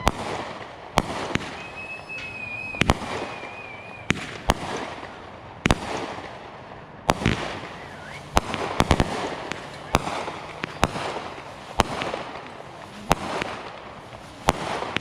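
Backyard fireworks going off: sharp bangs about once a second over a continuous crackle, with a wavering whistle a couple of seconds in.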